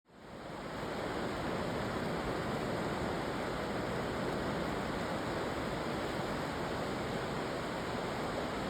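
Steady rush of river water, an even hiss-like roar that fades in at the start.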